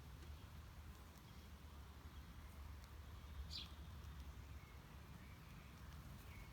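A wild bird gives a single short chirp about halfway through, a quick note sliding downward in pitch, with a few faint softer calls around it over a steady low outdoor rumble.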